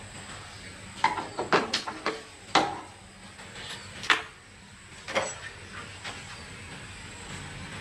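A series of sharp knocks and clicks at irregular intervals, bunched between about one and five seconds in, over a steady low hum.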